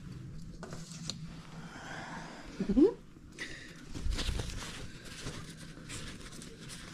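Rustling and light knocks of bike parts being handled during a front fork and headset fitting, with a short rising squeak a little under three seconds in and a dull thump about a second later.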